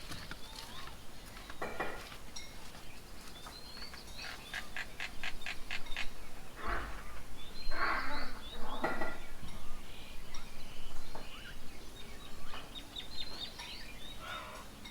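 Several birds calling at a garden bird table: scattered high chirps, a quick run of sharp repeated notes about four seconds in, then louder, harsher calls in the middle.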